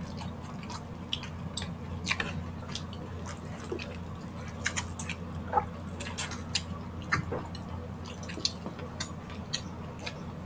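Close-miked eating: wet mouth clicks and smacks of two people chewing rice and grilled skewered meat eaten by hand, scattered irregularly over a low steady hum.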